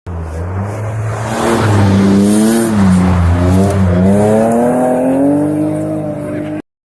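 Heavy truck engine revving, its pitch rising and falling several times over a steady low hum, then cutting off suddenly near the end.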